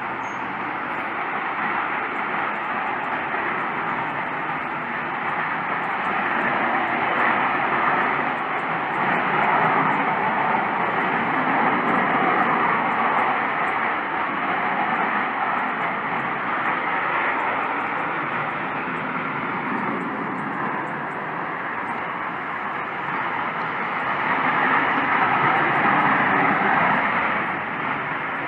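A loud, steady rushing roar from the sky, like jets flying overhead, though no planes are there. It swells twice, about a third of the way in and again near the end. This is one of the unexplained 'strange sky sounds'.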